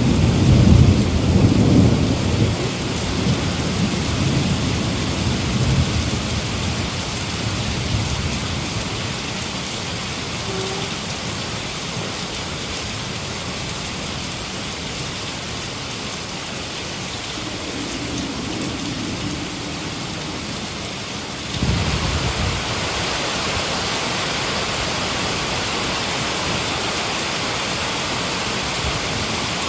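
Heavy rain falling steadily, with a deep roll of thunder that fades away over the first several seconds. About two-thirds of the way through, the rain suddenly becomes louder and hissier and stays that way.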